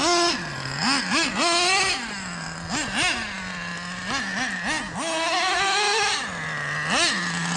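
Traxxas Slayer nitro RC truck's glow-fuel engine blipped in short bursts of throttle, its whine jumping up and dropping back to a low idle again and again. About five seconds in it makes one longer pull that climbs steadily before falling back.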